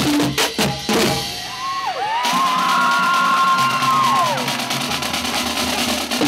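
High school drumline snare and bass drums playing rapid strokes, stopping about a second in; the crowd then cheers, with long whoops that rise, hold and fall away. The drumming starts again at the very end.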